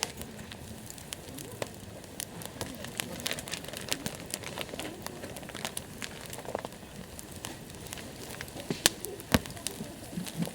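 Wood campfire crackling, with irregular sharp pops and snaps over a low steady hiss. Two loud pops come close together about nine seconds in.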